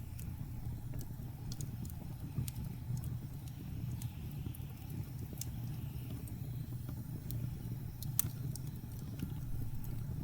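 Wood fire crackling in a fireplace: scattered sharp pops and snaps, one louder pop about eight seconds in, over a steady low rumble of blizzard wind.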